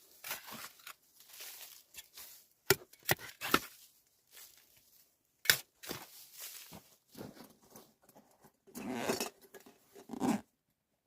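Irregular handling noises: short rustles and crunches with a few sharp clicks, and a longer stretch of rustling near the end.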